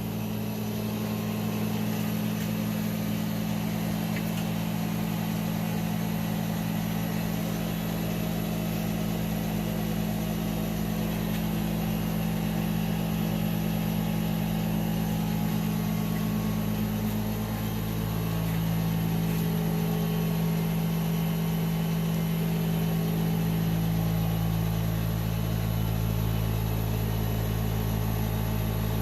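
ARB 12-volt on-board air compressor running continuously as it pumps up the 5-gallon tank and roll cage, a steady low hum whose pitch shifts slightly about two-thirds of the way through as pressure builds.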